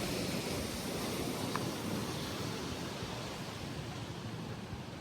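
Gentle sea surf washing onto the beach as a steady hiss, easing off slightly near the end.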